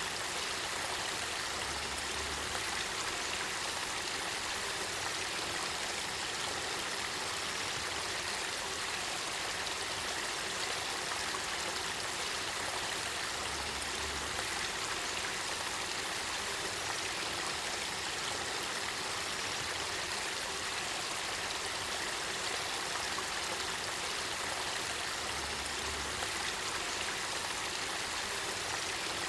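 Spring-fed river water flowing and trickling in a steady, even rush.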